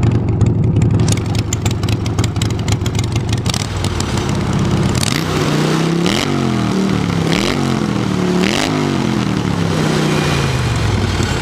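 Harley-Davidson Sportster 1200cc V-twin engine in a homebuilt pulling tractor, running steadily at first, then revving up and down three times about a second apart before settling back.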